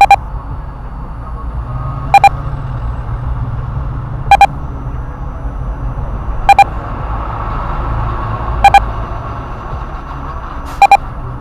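An electronic beeper sounding loud, short double beeps about every two seconds, six pairs in all, over a steady low engine and traffic hum.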